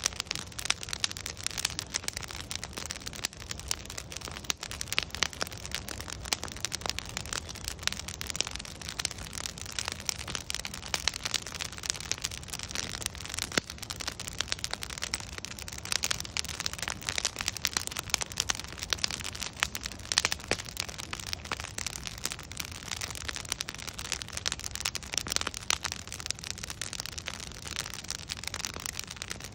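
Wood fire burning steadily, with dense, irregular crackling and popping from the logs over a soft hiss.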